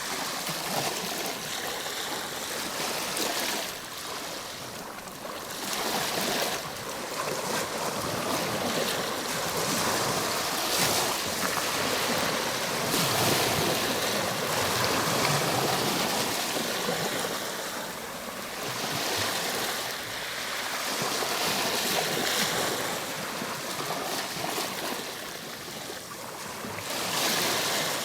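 Ocean waves washing on a shore, a continuous surging hiss that swells and recedes every few seconds with no distinct crashes.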